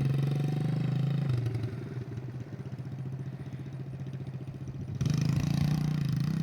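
50cc dirt bike engine running, easing off about a second in, then suddenly revving up louder near the end: a burst of too much throttle.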